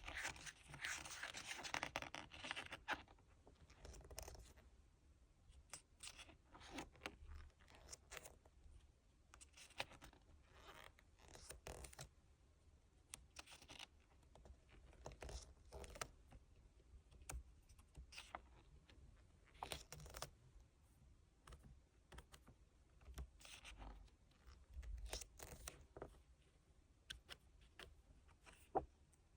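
Hands unpacking a K-pop album photobook: a burst of rustling, tearing packaging in the first three seconds, then scattered light taps and rustles as the contents are handled.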